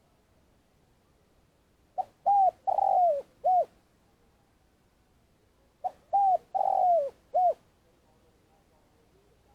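Spotted dove giving its long call: two identical cooing phrases about four seconds apart, each a faint brief note, a short coo, a longer coo sliding down in pitch and a short closing coo.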